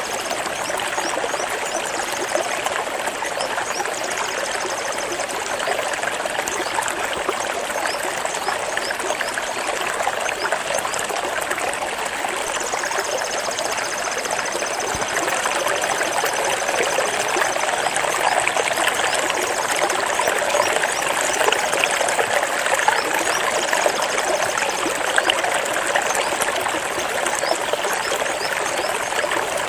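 Steady running water from a trickling stream, growing a little louder about halfway through.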